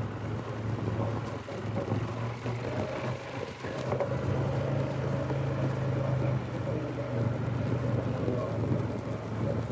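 Polaris ATV engine running while riding along a trail, a steady drone that grows a little stronger about three and a half seconds in and eases back a few seconds later.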